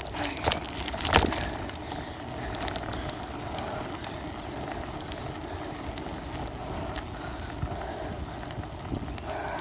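Rattling of a bicycle carrying a phone duct-taped to its front: a few sharp knocks in the first second or so, then a steady rushing noise with faint scattered clicks.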